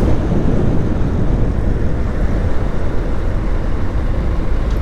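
Wind rushing over the microphone while a motorcycle rides at road speed, with the bike's engine and road noise underneath as a steady low rumble.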